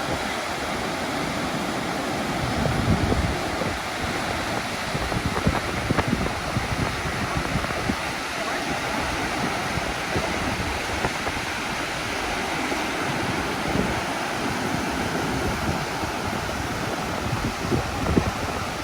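Waterfall rushing steadily, with gusts of wind buffeting the microphone now and then.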